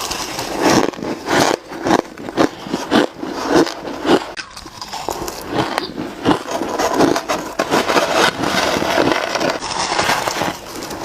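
Shaved ice being bitten and chewed: a dense, irregular run of crisp crunches and cracks.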